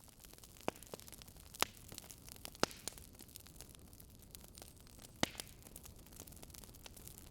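Campfire burning: a soft steady hiss with scattered sharp crackles and pops of burning wood, a handful of louder snaps among fainter ticks.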